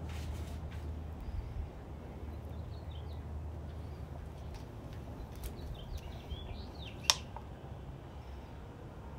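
Small birds chirping faintly in short calls, a few about three seconds in and a cluster around six to seven seconds, over a low steady hum that eases off after the first second or so. A single sharp click about seven seconds in.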